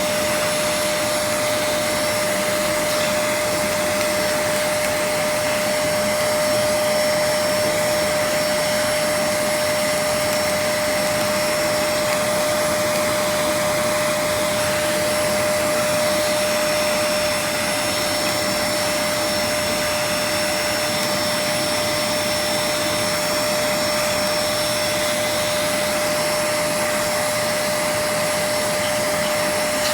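Vacuum cleaner running steadily on an air-conditioner filter, its motor giving a constant high whine over the rush of air.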